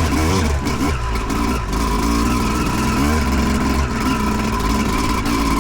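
2008 Yamaha YZ250 two-stroke dirt bike engine revving up and down as the throttle is worked. Its pitch rises and falls in quick sweeps near the start, holds steadier in the middle, and sweeps again near the end.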